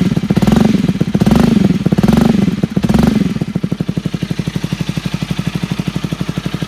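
Honda Rebel 250 motorcycle engine heard through a homemade muffler: the throttle is blipped about four times in quick succession, then the engine settles to a steady idle with even exhaust pulses from a little over three seconds in.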